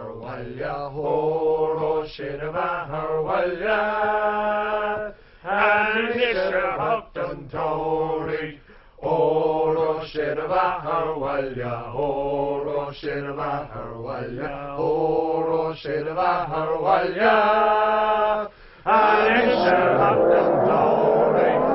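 Chant-like music: long held sung notes over a low steady drone, in phrases broken by short pauses. The sound grows fuller near the end.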